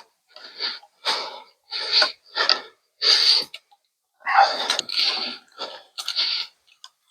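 Hand saw cutting through firewood with repeated back-and-forth strokes, about two a second, with short uneven pauses.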